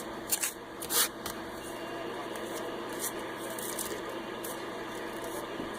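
Steady radio static hiss between transmissions, with a few sharp crackles in the first second.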